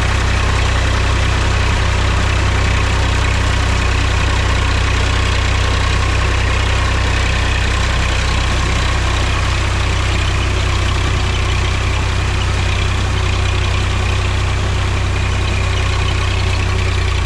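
Mahindra tractor's diesel engine running steadily with a deep, even hum.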